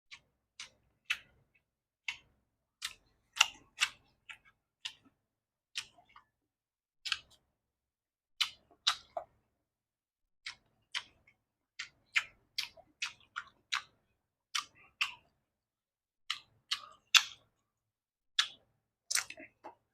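Close-up eating sounds of a person chewing lalapan vegetables: irregular short, crisp clicks and crunches from the mouth, roughly one or two a second.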